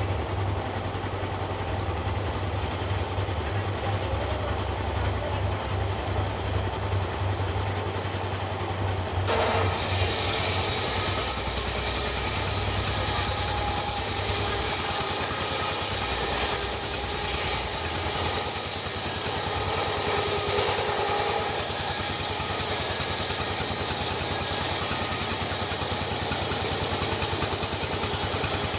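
A small engine running steadily. About nine seconds in, the sound changes suddenly and turns brighter.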